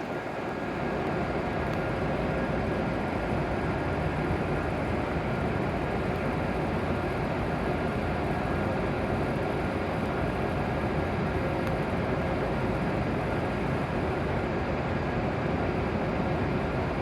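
W7 series Shinkansen train at the platform, giving off a steady mechanical running noise with a faint fixed hum; the level steps up slightly about a second in and then holds even.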